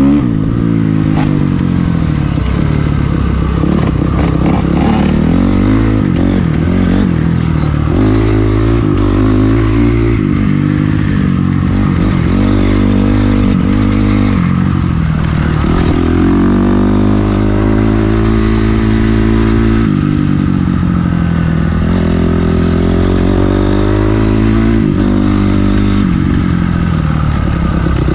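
Dirt bike engine running while riding, its pitch rising and falling again and again as the throttle is opened and closed.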